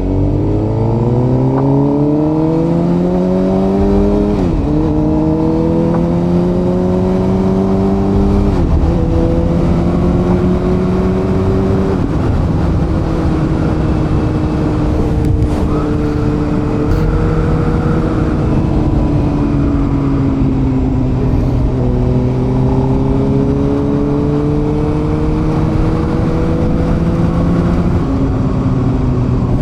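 Suzuki GSX-R750's inline-four engine pulling up through the gears, its pitch climbing and dropping at upshifts about four and eight seconds in. It then runs at a steady cruise with small changes in speed and a slow rise near the end, over a steady rush of wind and road noise.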